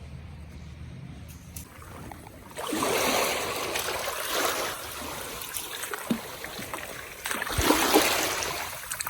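Small waves washing on a sandy beach, swelling in about two and a half seconds in and again near the end.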